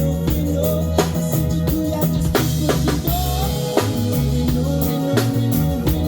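Live band music: drum kit striking a steady beat over sustained low bass notes.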